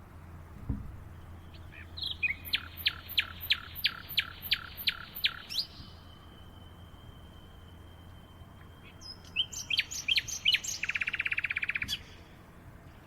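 Songbirds singing: a run of about ten quick falling notes, then a thin held whistle, then a varied phrase that ends in a fast trill.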